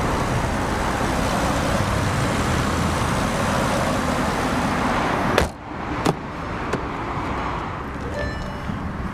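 A car engine running steadily, broken by a sharp click about five and a half seconds in, after which the running sound carries on more quietly, with a second click soon after.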